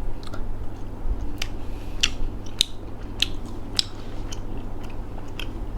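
Close-up mouth sounds of chewing a soft, chewy grape gummy candy, with wet clicks about every half second.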